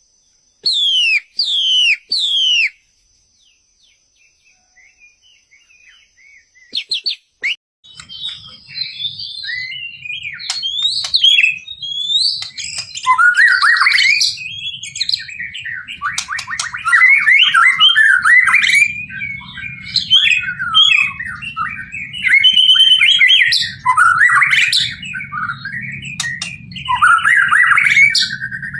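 White-rumped shama singing: three loud, falling whistles in the first few seconds, then after a pause a long, continuous song of quick varied phrases from about eight seconds in, with a low hum underneath.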